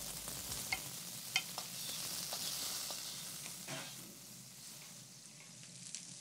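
Crumbled tempeh and diced onions frying in ghee in a stainless steel skillet: a steady sizzle, with a few scrapes and knocks of a wooden slotted spatula against the pan as the mixture is stirred.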